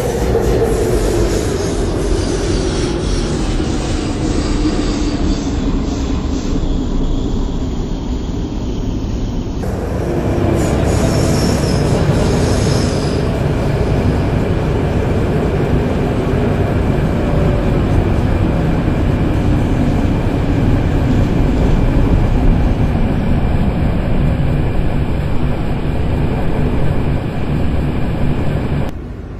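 MTR C-Train electric multiple unit slowing into a station: the traction motor whine falls steadily in pitch over the first ten seconds over loud wheel-on-rail rumble and some wheel squeal, and the noise drops away sharply just before the end as the train comes to a stop.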